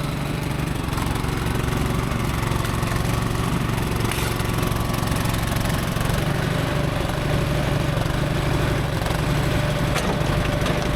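Logosol B1001 hydraulic bandsaw mill running steadily with its engine at a constant speed. A faint steady whine joins about halfway.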